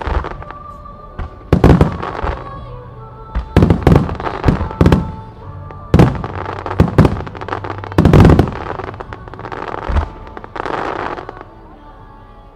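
Japanese aerial firework shells from Saiki Enka's display bursting in quick succession, a dozen or so sharp bangs, often two or three close together, with a crackling rush about ten seconds in and the bursts dying down near the end. Music plays underneath.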